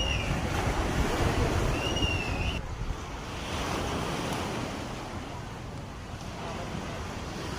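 Sea surf washing onto a sandy beach, with wind buffeting the microphone. A short wavering whistle sounds twice in the first couple of seconds, and at about 2.6 s the sound drops suddenly to a softer, steady wash of surf.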